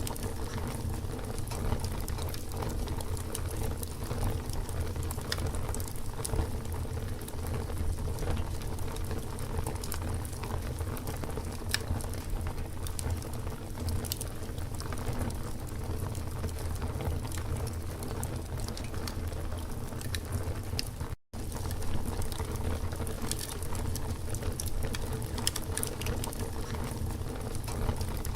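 Wood campfire burning: a steady low rumble of flames with frequent small crackles and pops. The sound cuts out for a split second about 21 seconds in.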